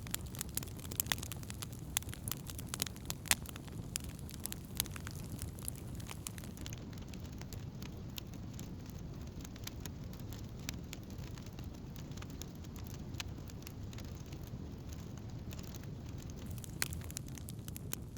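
Wood campfire crackling: sharp pops and snaps over a low steady rumble. The pops come thick in the first few seconds, thin out through the middle and pick up again near the end.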